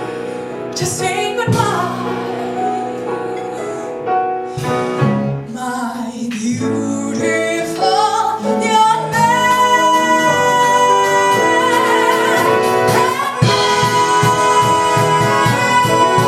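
A woman singing a musical theatre song with band accompaniment, holding one long note through the second half.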